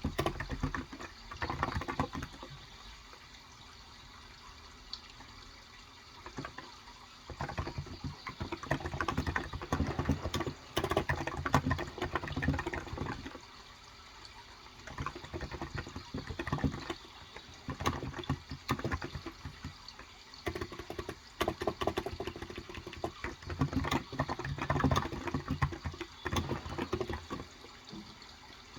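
Typing on a Cox Endeavor tenkeyless keyboard with 35 g electro-capacitive (Topre-style) switches: rapid runs of soft key clacks with a low thock, coming in bursts of several seconds with short pauses between. Under it runs a steady background of flowing water.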